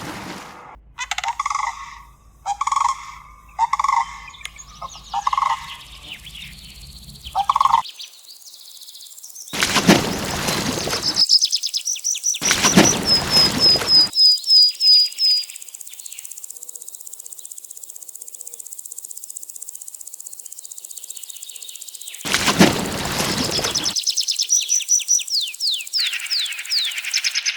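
Birds calling outdoors: a series of about six pitched, fowl-like calls in the first few seconds, then quick trills of high chirps. Three loud noisy bursts of about a second and a half each break in, at about ten, twelve and twenty-three seconds.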